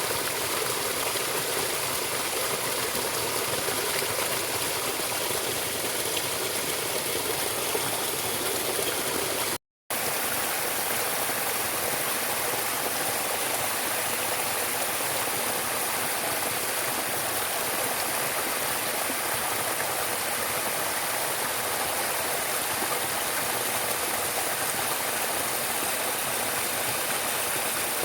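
Steady rushing of flowing stream water, with no distinct events. It cuts out completely for a moment about ten seconds in, then resumes with a slightly different texture.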